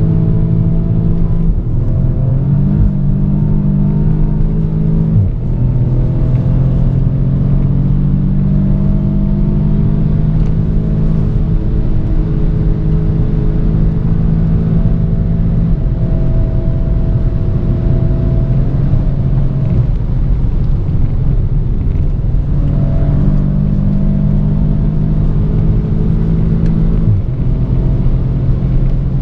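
Audi S3 8V's tuned turbocharged 2.0-litre four-cylinder, heard from inside the cabin, pulling at high revs under heavy throttle, with tyre and wind noise underneath. Its pitch climbs slowly and drops suddenly at quick DSG upshifts, clearly about five seconds in and again near the end.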